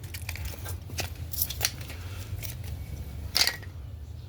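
Light clicks and clatter from handling the broken wooden birdhouse pieces, with one sharper knock about three seconds in.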